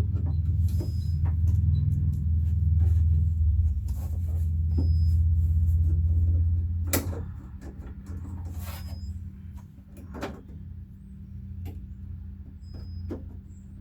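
A steady low hum that drops sharply in level about seven seconds in, with scattered sharp metallic clicks and knocks of small door-latch parts and tools being handled.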